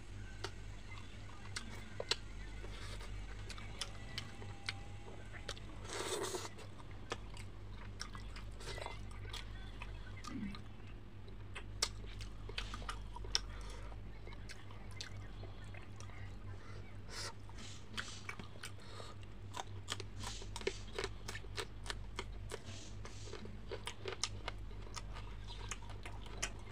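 A person chewing and crunching fried fish, with many small mouth clicks and smacks and one louder noisy burst about six seconds in, over a steady low hum.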